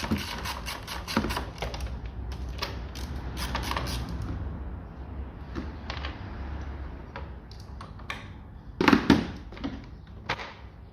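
Ratchet wrench clicking in quick, even strokes as the nut of a car's battery hold-down clamp is loosened, then a few scattered metal clicks and one louder clatter near the end.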